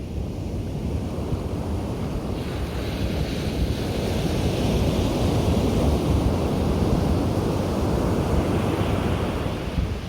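Sea surf on a beach: a wave's rush swells from about two seconds in, is loudest around the middle, then eases off near the end, over a steady low rumble of the sea.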